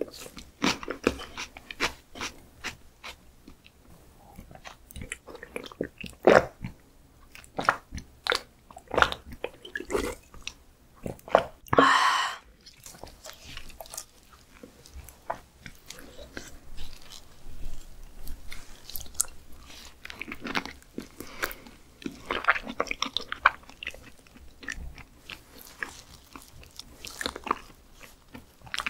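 Close-miked chewing and wet mouth sounds of eating raw skate liver: irregular soft smacks and clicks as the rich, sticky liver is worked in the mouth. About halfway through comes one louder, longer mouth sound lasting about half a second.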